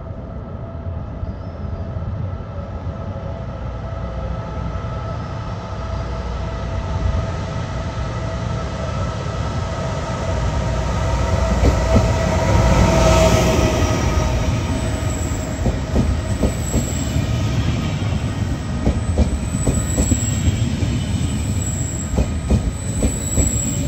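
E464 electric locomotive heading a regional train of Vivalto double-deck coaches, running into the station to stop: a rumble with a steady electric whine grows louder until the locomotive passes about halfway through. After that the wheels click over rail joints and a thin high squeal, typical of brakes, sounds as the coaches roll by.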